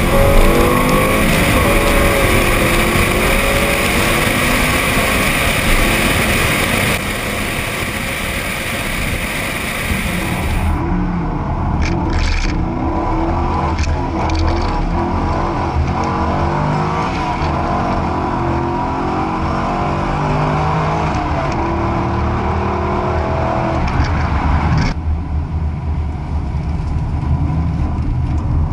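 Chevrolet Corvette Z06 V8 engines running hard, revving up and dropping back repeatedly as the cars accelerate and shift on a wet road, over a steady hiss.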